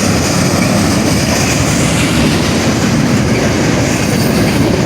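Freight train cars rolling past a grade crossing, a steady loud noise of wheels on the rails.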